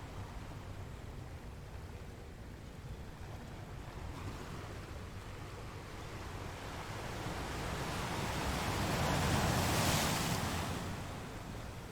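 Ocean surf: a steady wash of waves, with one wave building and breaking loudest about two-thirds of the way through, then fading.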